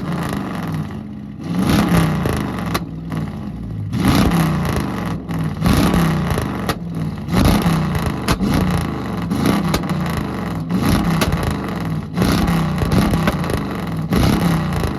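A car engine revved hard in repeated bursts, the pitch rising and falling every second or two, with sharp pops between the revs.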